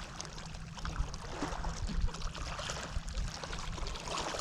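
Water lapping and splashing against a small boat's hull, with wind buffeting the microphone as uneven low rumble and a few small knocks.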